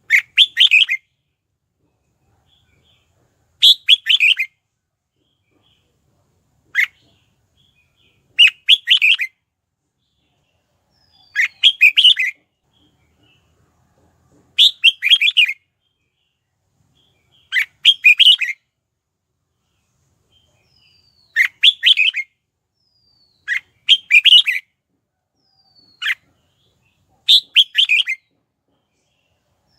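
Red-whiskered bulbul singing short, bright song phrases about every two to three seconds, each under a second long, with a few reduced to a single quick note.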